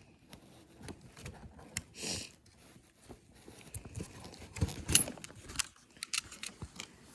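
A new horse blanket being handled: rustling and tearing as its tags are pulled off, with scattered small clicks and clinks from its fittings, the sharpest cluster a little past the middle.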